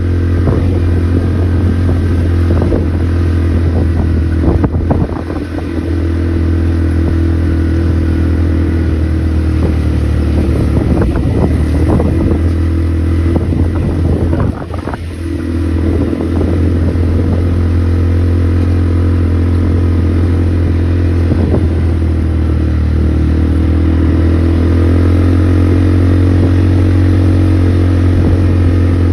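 ATV engine running steadily while under way, with scattered clattering knocks and two brief drops in engine level, about a third of the way through and about halfway.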